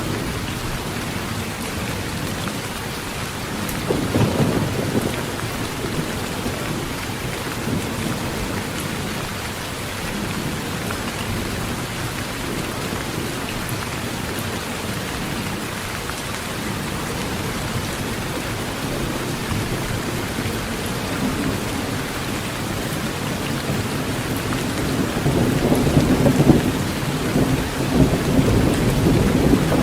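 Steady heavy rain on a metal roof, with low thunder rumbling briefly about four seconds in and again, longer and louder, near the end.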